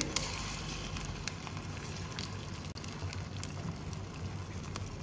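Beaten egg and bitter melon frying in hot oil in a nonstick pan: a steady sizzling hiss with scattered small pops.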